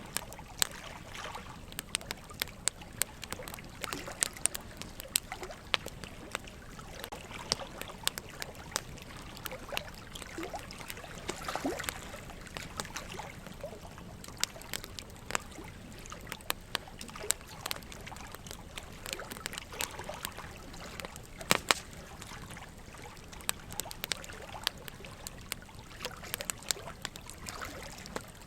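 Wood fire crackling with frequent sharp, irregular pops over a steady trickle of running water; a couple of louder pops come about three-quarters of the way through.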